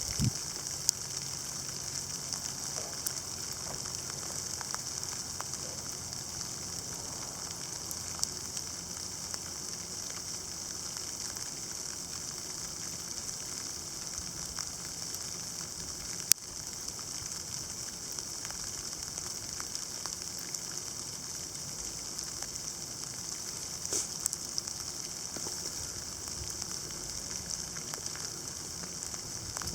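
Sleet falling steadily: ice pellets ticking on surfaces in a continuous fine, high hiss, with a few sharper clicks, the loudest about halfway through.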